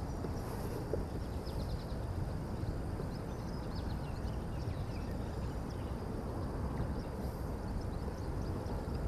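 Steady low rumbling outdoor noise, with faint scattered high chirps above it.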